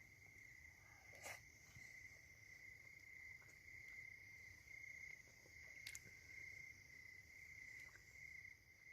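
Faint, steady trilling of crickets, one unbroken high note, with two soft clicks about a second in and again near the middle.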